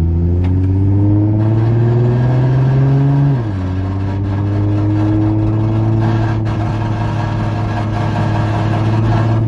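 Turbocharged Nissan Laurel's engine heard from inside the cabin, revs climbing under acceleration for about three seconds, then dropping sharply at a gear change and climbing slowly again in the next gear.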